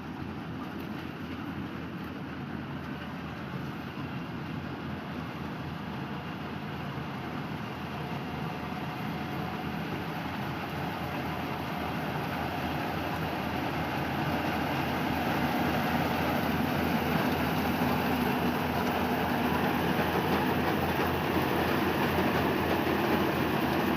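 A machine engine running steadily, growing gradually louder as it comes closer.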